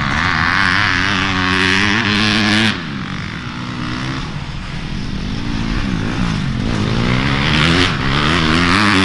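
Dirt bike engine running close by with wavering revs. It is loudest for the first three seconds and again from about seven seconds in, dropping off suddenly at the end.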